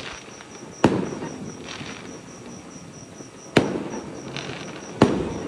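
Aerial fireworks bursting: three sharp booms, about a second, three and a half and five seconds in, each trailing off into rumble and crackle.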